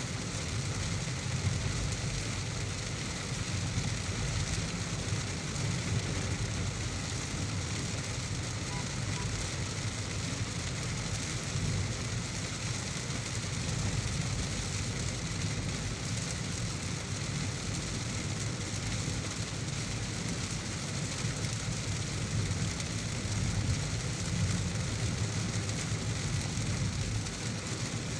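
A car driving in heavy rain: a steady low rumble of the road under an even hiss of rain.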